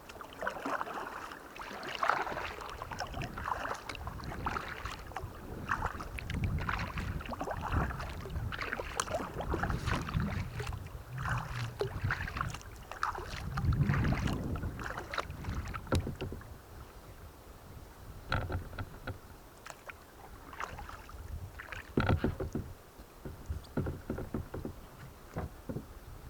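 Kayak paddle strokes splashing and dripping in the water, one after another in an uneven rhythm, with a few sharper knocks in the second half.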